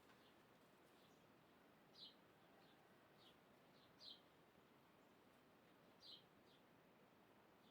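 Faint bird chirps: short, high, downward-sliding notes repeated about every two seconds, each followed by a softer second note, over a faint steady background hiss.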